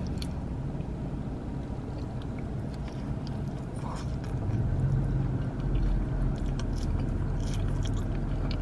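Faint chewing and wet mouth sounds of someone eating cheese-sauce-covered fries, with a few light ticks, over a steady low hum inside a car.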